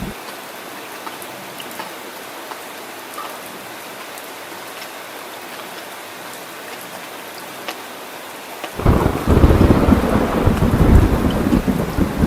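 Heavy rain falling with a steady hiss, then about nine seconds in a loud, low thunder rumble sets in and keeps rolling. A low rumble also cuts off suddenly at the very start.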